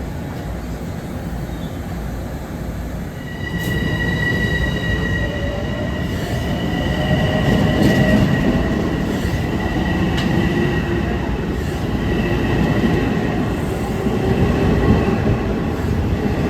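A Long Island Rail Road electric commuter train running on the tracks. Its rumble grows louder about three seconds in, with steady high-pitched tones ringing above it from then on.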